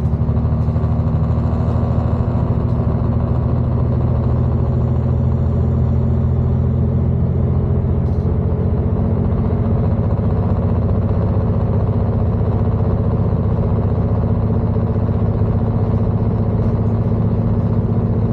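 Class 221 Super Voyager diesel-electric train running at a steady speed: its underfloor diesel engine drones on one unchanging note, under an even rush of running noise.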